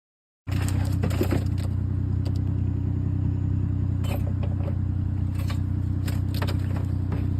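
A steady low machine hum with a few scattered clicks on top, starting abruptly about half a second in.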